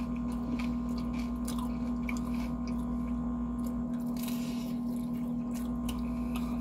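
Chewing and biting into fried chicken, with irregular crisp crunches of the breading, over a steady low hum.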